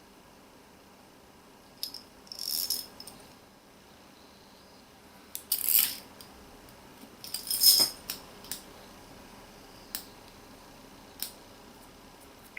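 Small hard parts being handled: scattered clicks and short clattering rattles, a few seconds apart, the loudest about eight seconds in.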